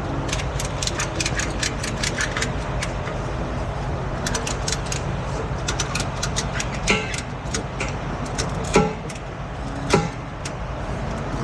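Truck engine idling steadily. Over it, a quick run of clicks and rattles fills the first few seconds, then three separate sharp knocks come later on.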